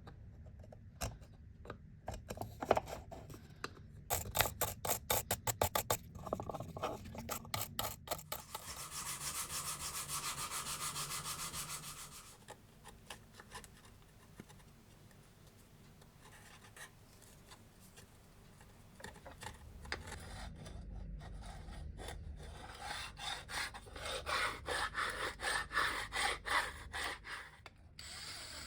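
Hand abrading by file or sandpaper on a grinder part: quick back-and-forth rasping strokes, several a second, in runs. About eight seconds in the strokes merge into a few seconds of steady rubbing. There is a quieter spell in the middle, and a second run of strokes near the end.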